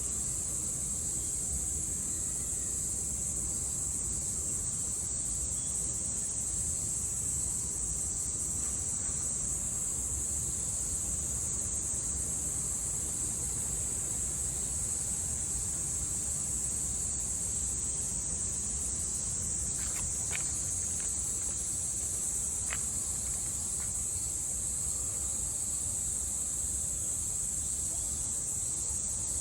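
Cicadas singing in a summer chorus: one unbroken, steady, high-pitched buzz that holds its pitch and level throughout.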